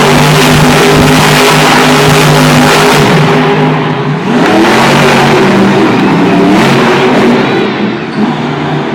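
Monster truck engine running very loud at high revs; about four seconds in the revs drop briefly and then climb again in rising sweeps, easing off near the end.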